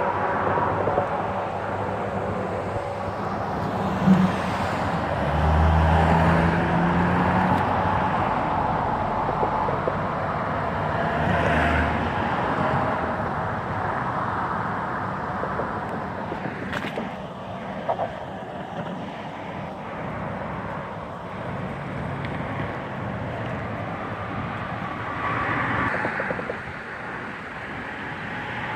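Steady outdoor traffic noise from vehicles on nearby roads, with one vehicle's engine hum growing louder about 5 to 12 seconds in.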